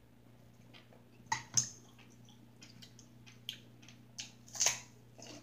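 A person chewing and biting food close to the microphone: scattered sharp mouth clicks and smacks, the loudest about one and a half seconds in and again near the end, over a steady low hum.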